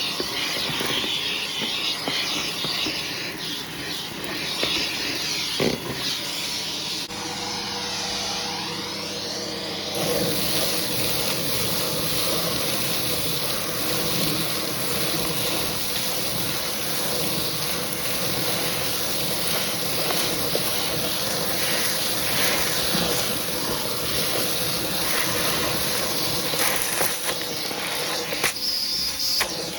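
Hoover vacuum cleaner running steadily, its hose tool drawing over a shag rug. A steady hum joins the rushing noise about a quarter of the way in.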